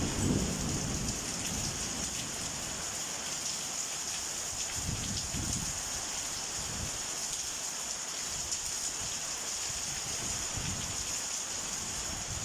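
Rain of a summer thunderstorm falling steadily, an even hiss, with a few brief low rumbles.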